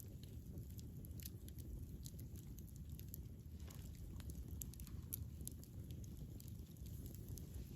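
Campfire burning with a low steady rumble and scattered small crackles and pops from the burning wood.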